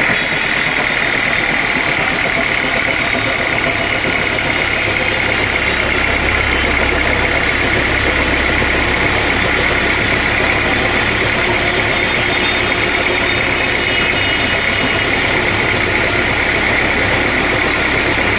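Sawmill machinery running steadily: an even, engine-like drone with a constant high whine.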